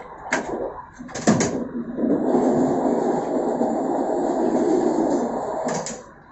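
A moving passenger train's wheels on the rails, heard from the rear of the train: a few sharp clicks over the rail joints, then a louder steady rumble for about four seconds that drops away with another click near the end.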